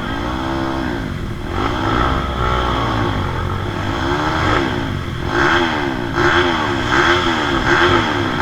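Trail motorcycle engine revved up and down over and over, each blip of the throttle rising and falling in pitch. The revs come quicker and louder from about halfway through.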